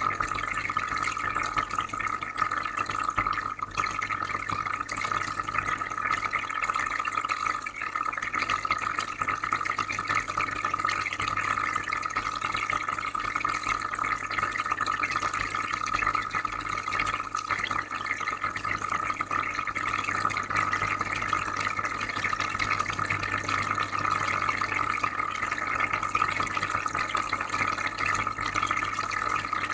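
Aquarium filter running: steady bubbling and trickling water over a low, constant hum.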